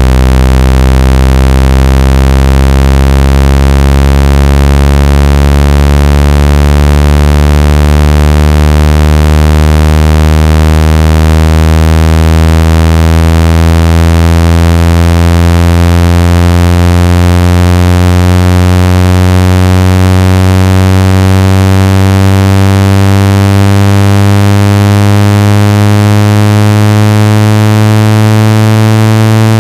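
Synthetic buzzing tone used as a phone speaker water-ejection sound, a low, harsh buzz rich in overtones that climbs slowly and steadily in pitch. Played loud, it is meant to vibrate water out of a phone or earphone speaker.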